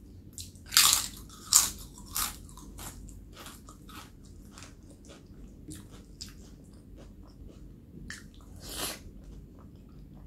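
Close-miked biting and crunching on crisp food: three loud crunches in the first two and a half seconds, then quieter chewing with small mouth clicks, and another crunch near the end.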